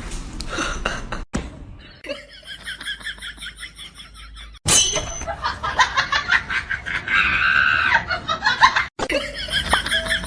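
People laughing in quick pulses, the sound cutting off abruptly several times.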